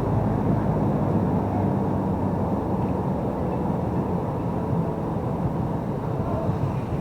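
Steady rumble of busy road traffic mixed with wind on the microphone, heard from a bicycle riding along a major highway.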